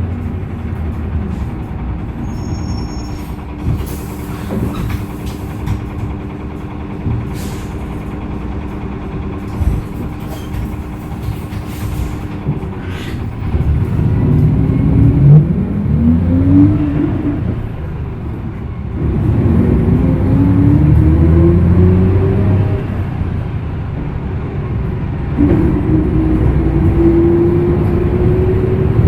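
Hyundai Green City CNG bus's C6GB engine, heard on board, running steadily at first with a short hiss of air and a few clicks. It then pulls away, its pitch climbing three times as the bus gets up to speed and shifts up through the gears.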